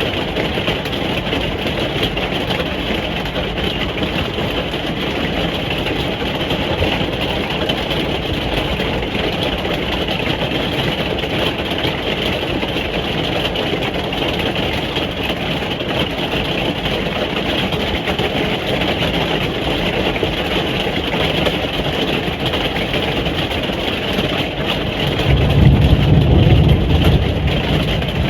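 Steady rain drumming on a caravan roof, heard from inside as an even, dense hiss. A deep low rumble swells up near the end and dies away after about two seconds.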